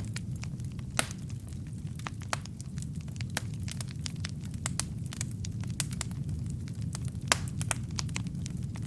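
Wood logs burning in a fireplace: a steady low rumble of flames with frequent sharp, irregular crackles and pops, two of them louder, about a second in and near the end.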